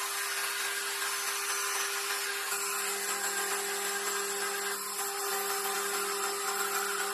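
A power tool running steadily on wood, with a constant hum; a second, lower hum joins about two and a half seconds in.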